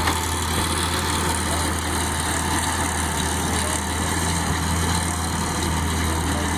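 Case 170 CVX tractor's engine running steadily with a low, even hum, with a Welger baler working behind it.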